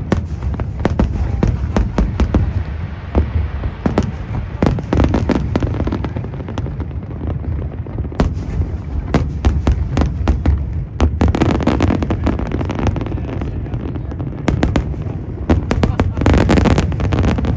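Aerial fireworks going off in rapid succession: many sharp bangs over a continuous low rumble, thickening into dense crackling clusters about eleven seconds in and again near the end.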